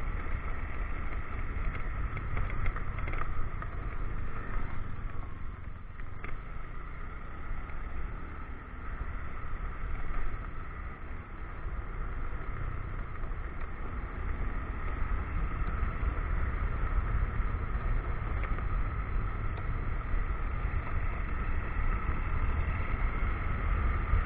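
Motorcycle riding along a road, its engine running under a steady low rumble of wind on the microphone. It goes a little quieter for several seconds near the middle.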